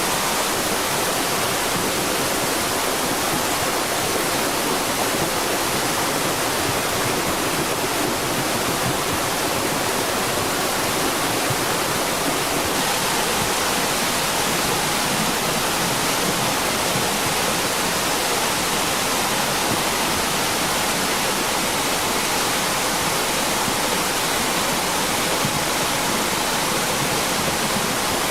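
Flash-flood torrent of rushing water, a steady, unbroken wash of noise.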